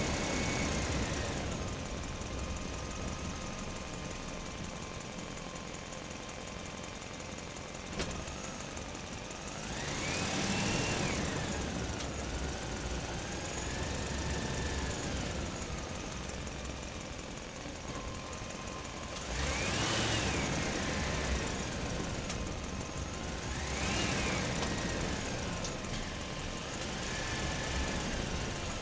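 A small motor running steadily, its whine rising and falling in pitch in repeated swells as the load or speed changes.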